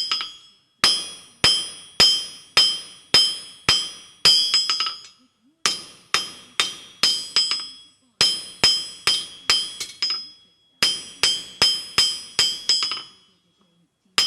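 Hand hammer striking hot 3/8 inch square steel bar on an anvil to draw it out toward 1/4 inch, with the anvil ringing after each blow. The blows come about two a second in runs of several. Each run ends in a few quick lighter taps, with short pauses between runs.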